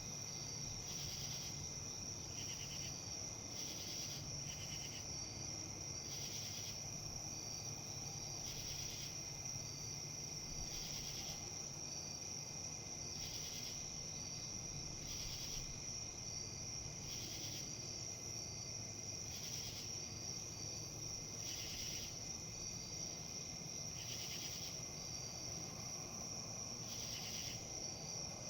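Insects, cricket-like, keep up a steady high-pitched drone, with a rhythmic pulsing chirp roughly once a second. Under them is a low, even rustle of wind in leaves.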